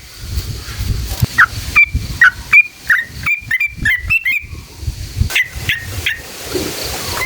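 Yellow-vented bulbul (trucukan) singing: short, bubbling chirped notes that speed up into a quick run of notes about halfway through.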